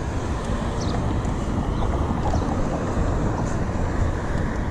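Wind buffeting the microphone outdoors: a steady low rumbling noise.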